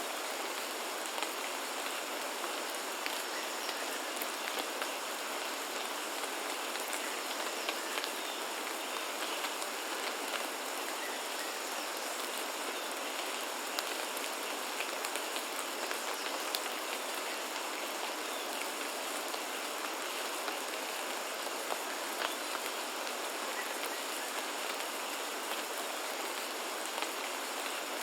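Steady rain falling, with many individual drops ticking and pattering on surfaces, and a faint thin high tone held steady underneath.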